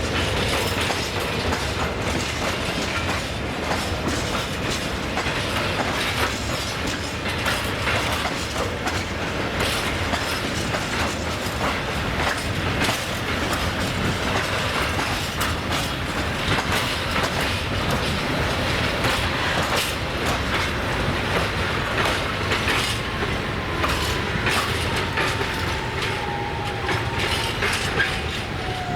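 Train passing close by: a steady rumble with wheels clicking over rail joints. A faint whine falls in pitch near the end.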